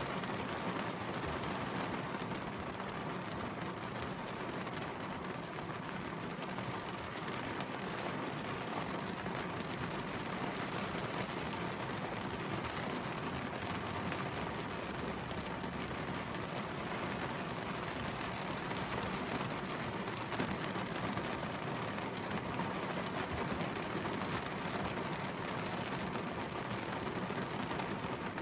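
Heavy downpour drumming on a car's windshield and roof, heard from inside the cabin as a steady, dense hiss.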